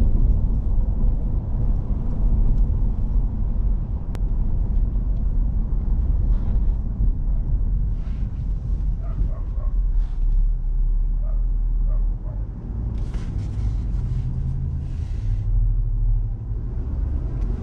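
Low, steady in-cab rumble of a Ford F250 Super Duty's 6.7 L Power Stroke turbo diesel V8 and its tyres while driving, with a few short rattles or knocks over the middle and latter part.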